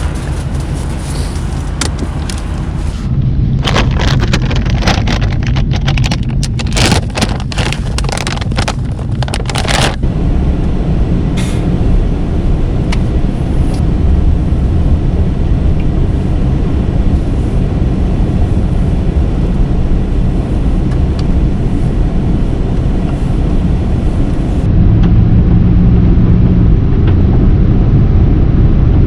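Van driving, with a steady low rumble of engine and road noise. A run of sharp, irregular knocks or rattles comes between about three and ten seconds in. The rumble grows louder near the end.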